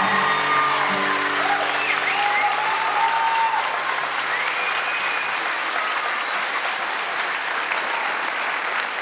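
Audience applauding at the end of a choir song, while the accompaniment's last held chord fades out in the first few seconds. A few short rising and falling cries come through the clapping.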